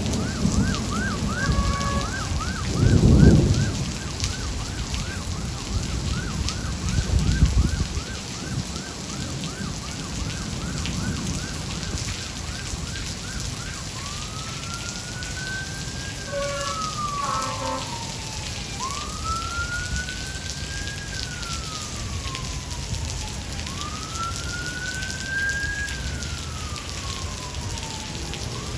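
Steady rain, with an emergency-vehicle siren sounding over it: a rapid yelp for about the first ten seconds, then slow rising-and-falling wails every few seconds. Two low rumbles of thunder come about three and seven seconds in, and the first is the loudest sound.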